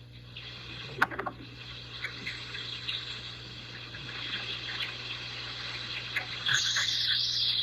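Steady rush of storm water, swelling louder for about a second near the end, with a sharp knock about a second in.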